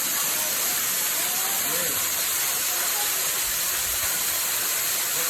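Waterfall's falling water rushing in a steady, unbroken hiss.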